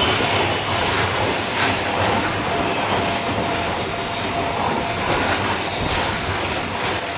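Freight train's loaded container wagons rolling past at speed, with a steady loud running noise of wheels on rail and irregular clacks as wheels cross the rail joints.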